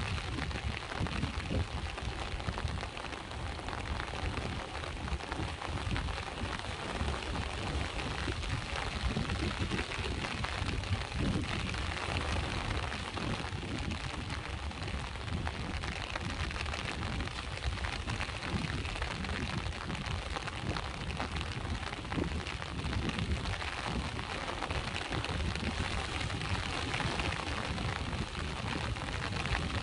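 Steady rain falling, with sea waves washing in as slow low surges underneath.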